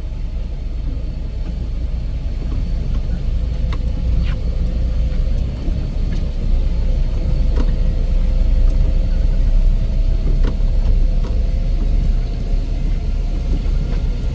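Heavy snow-removal machine's engine running steadily with a low rumble and a steady hum, with a few scattered clicks and knocks.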